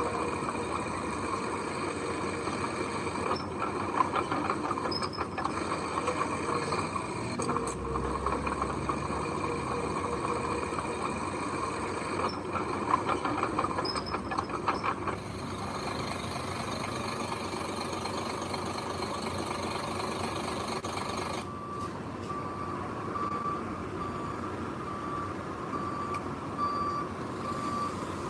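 Heavy construction vehicle running with its reversing alarm beeping over the engine noise; the evenly repeated beeps stand out most clearly in the last several seconds.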